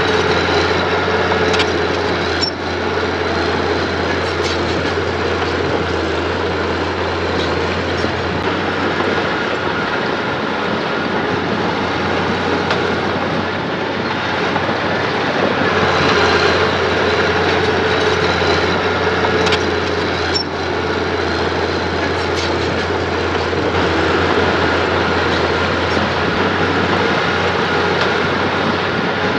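Mitsubishi mini bulldozer's diesel engine running steadily under load, with occasional short metallic clanks.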